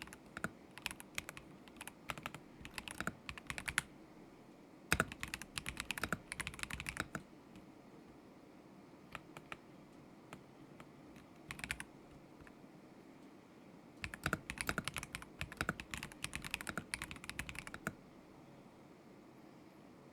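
Typing on a KZZI K75 Pro mechanical keyboard with Moment linear switches: quick runs of key clicks in several bursts, with pauses of a second or more between them and a few lone keystrokes in the gaps.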